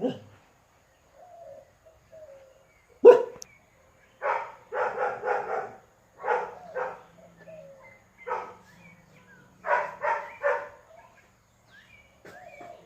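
An animal giving a series of short, loud calls, mostly in quick groups of two to four. The sharpest and loudest comes about three seconds in.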